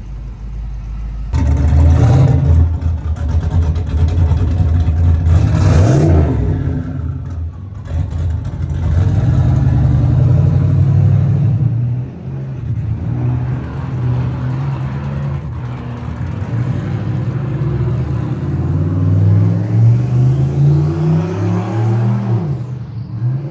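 A loud performance car engine revving. It climbs sharply a little over a second in, surges again about six seconds in, holds high revs, and near the end rises and falls in pitch before dropping off.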